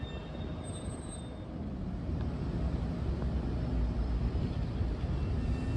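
Steady low rumble of a Metro-North commuter train, growing louder about two seconds in.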